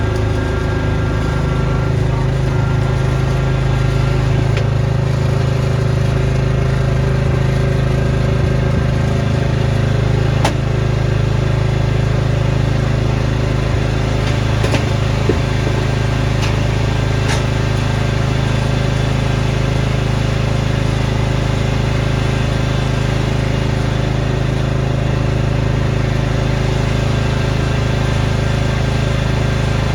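Small gasoline engine of a snowblower running steadily at an even speed, with a few short sharp ticks about ten, fifteen and seventeen seconds in.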